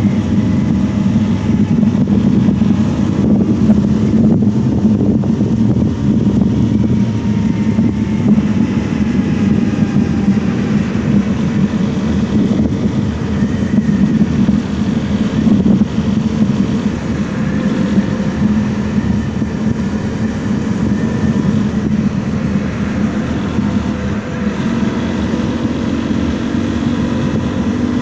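Honda CRF 250 L's single-cylinder 250 cc engine running continuously as the motorcycle rides along, with a steady drone and wind rush.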